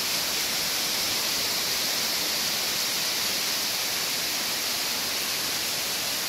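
Heavy summer rain pouring down, a steady even hiss with no breaks.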